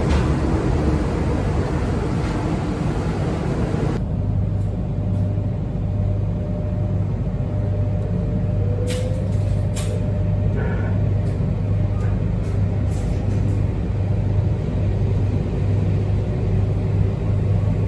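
Vehicle running, heard from inside: a steady low hum. The sound changes abruptly about four seconds in, and there are a few short clicks near the middle.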